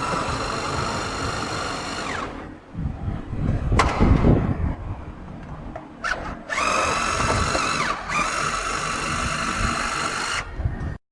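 Handheld power drill whining in two long runs, taking out fasteners as body panels come off. The first run lasts about two seconds. After a pause with a few knocks, the second run starts about six seconds in and its pitch dips briefly near the eight-second mark.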